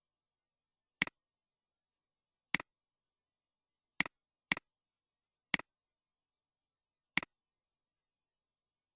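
Computer mouse button clicked six times at uneven intervals, each click a sharp press followed at once by a softer release tick.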